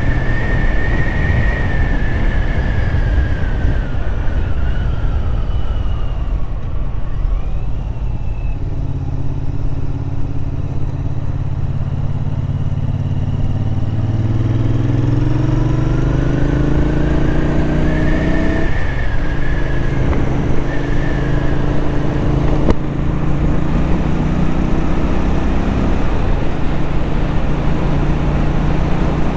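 Royal Enfield Interceptor 650 parallel-twin engine running on the road, heard with wind rush. About halfway through, the engine climbs in pitch as the bike accelerates, then drops sharply at a gear change and settles into a steady cruise.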